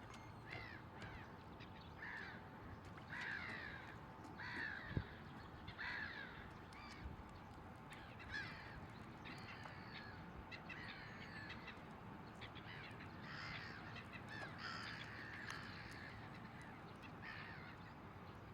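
Faint bird calls in a series of short downward-sliding calls, roughly one a second, over a steady low hiss, with a single thump about five seconds in.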